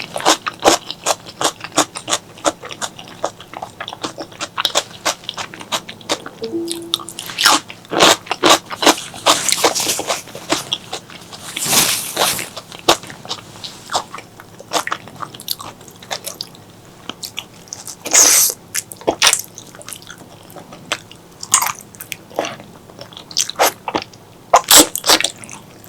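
Close-miked chewing of spicy pork leg curry and rice: quick wet mouth smacks and clicks with some crunching, broken by a couple of longer, louder slurping or sucking sounds.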